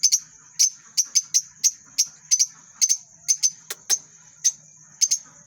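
Lovebirds chirping: short, sharp, high-pitched calls in a quick, irregular series, about three a second.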